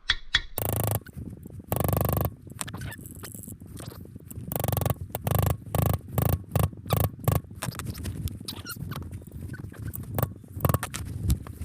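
Irregular scraping, clicking and rattling of metal hand tools and motorcycle bearing-press parts being worked and handled, in a quick uneven run of short strokes with a few longer scrapes.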